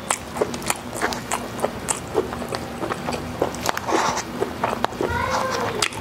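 Close-miked eating sounds: chewing food, with many short sharp mouth clicks and smacks, and a spoon working in a small bowl.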